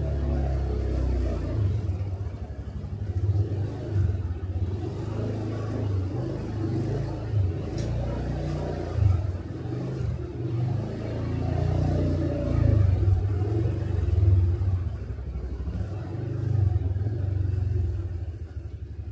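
Motorcycle engine running while riding on the road, heard from the rider's seat. It is a steady low rumble that swells and eases every few seconds.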